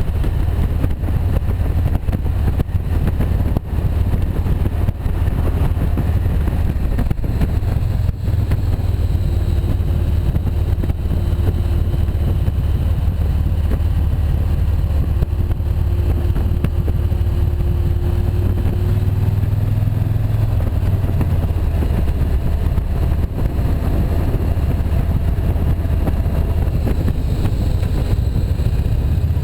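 Motorcycle engine running steadily under way at road speed, with the rush of riding noise over it; the engine note shifts briefly about two-thirds of the way through, as with a throttle or gear change.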